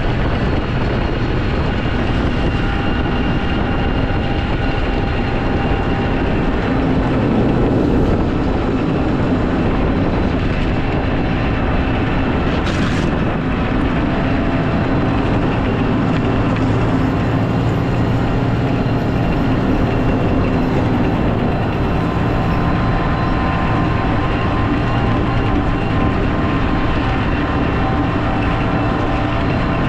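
Snow plow vehicle's engine running steadily, a constant drone with several steady tones, and a short sharp click about 13 seconds in.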